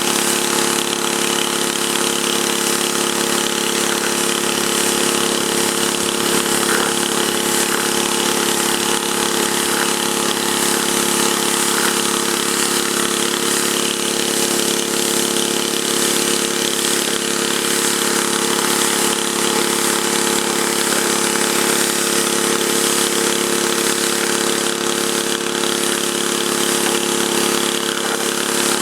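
Gas pressure washer engine running steadily under load, with a constant hiss of high-pressure water spraying from the water broom's nozzles onto pavement.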